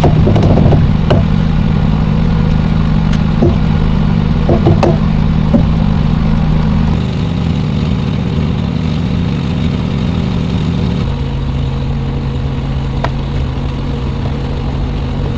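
Diesel engine of a semi tractor-trailer idling, with a few sharp clanks and clicks in the first six seconds. The engine note steps down about seven seconds in and again about eleven seconds in.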